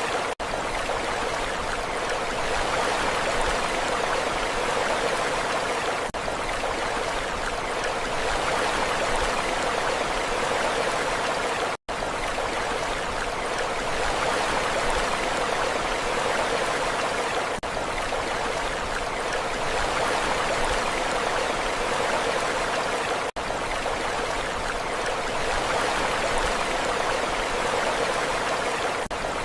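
Steady rushing water, an even hiss with no rise and fall of waves, broken by a brief dropout about every six seconds, as at the seams of a looped recording.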